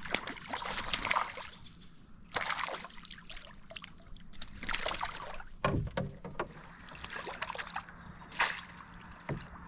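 Water splashing and sloshing at a canoe in irregular bursts as two hooked fish are fought near the boat, with a dull thud about six seconds in.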